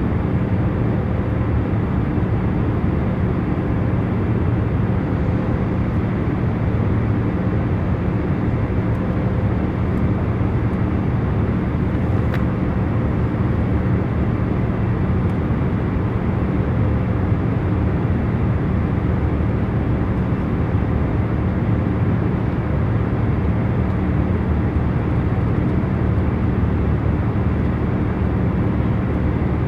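Airliner cabin noise in cruise flight: a steady, even, low hiss with a faint constant hum underneath, unchanging throughout.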